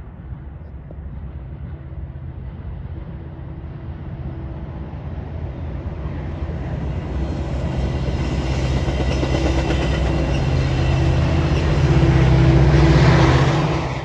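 Train approaching: a steady low engine drone grows louder throughout, with rising rumble and hiss, then cuts off suddenly at the end.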